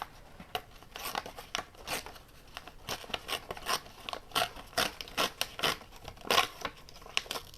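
Sheet of paper being handled by hand, a run of irregular sharp crackles and rustles.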